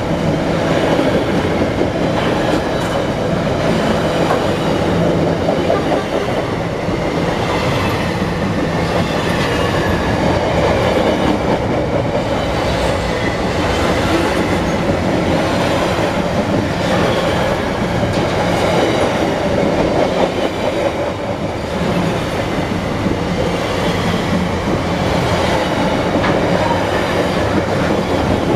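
Freight train wagons rolling past close by: a steady rumble and clatter of steel wheels on the rails, with a faint wheel squeal at times.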